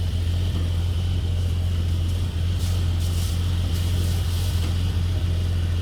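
Suzuki SJ 4x4 engine running steadily at low revs, a constant low hum with no revving. A few short hissing sounds come around the middle.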